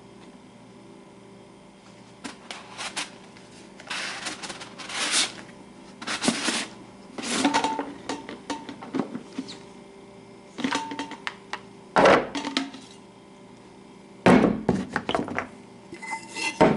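Parts of a thermal coffee carafe being handled and fitted together: irregular rubbing and scraping of plastic and glass pieces, with two sharp knocks about twelve and fourteen seconds in.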